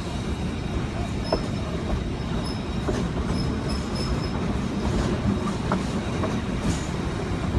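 Train cars rolling along the track with a steady low rumble and a few faint clicks. Short, faint high squeaks come from the wheels, about one to four seconds in, as the train rounds a curve.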